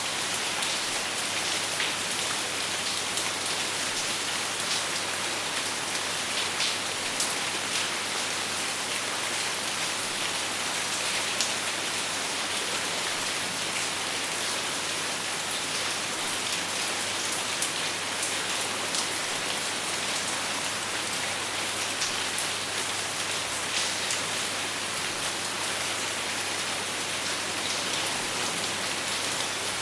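Steady rain falling and pattering on a surface, with scattered individual drop ticks and no thunder.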